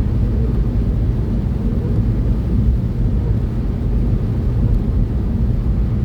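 Steady low rumble of a car's engine and tyres, heard inside the cabin while cruising at about 50 mph on a motorway.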